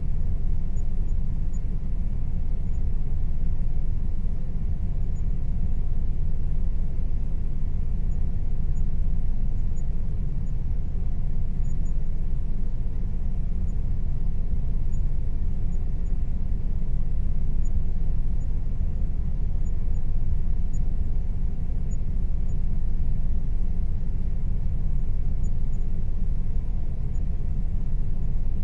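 Air conditioner running: a steady, even low rumble with a faint steady hum above it.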